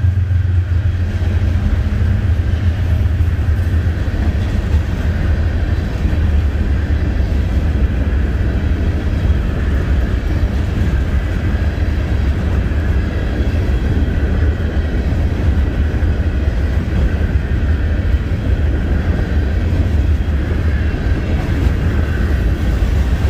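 Freight train of covered hopper cars rolling past at close range: a steady, heavy low rumble of steel wheels on the rails.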